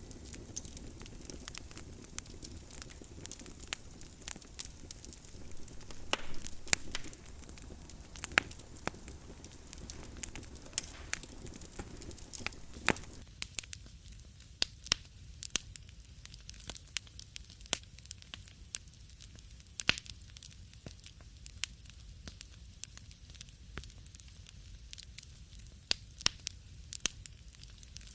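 Wood fire crackling in a fireplace, with frequent sharp pops and snaps over a soft hiss. The lower hiss fades out about halfway through, leaving mostly the crisp pops.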